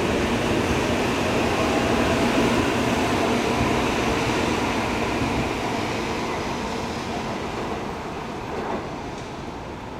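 Tokaido Shinkansen N700A train pulling out of the station, the rushing running noise of its cars going by the platform. The noise holds steady at first, then fades gradually through the second half as the train draws away.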